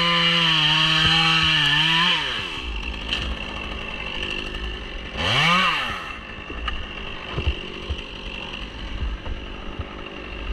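Stihl chainsaw running at high revs, then the throttle is let off about two seconds in and the engine winds down to idle. It gets a short blip of the throttle around five seconds in and then keeps idling.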